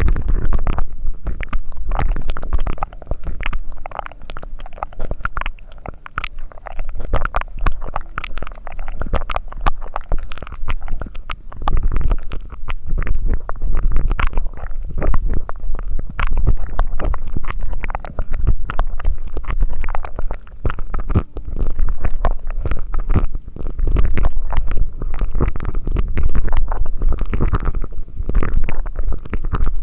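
Close-miked ASMR mouth sounds: a dense, irregular run of wet clicks and crackles over a low rumble.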